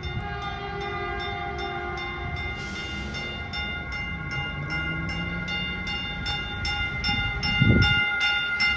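Grade-crossing warning bells ringing in a fast steady rhythm, about four strokes a second, over the low rumble of a Caltrain train. A loud low thump comes near the end.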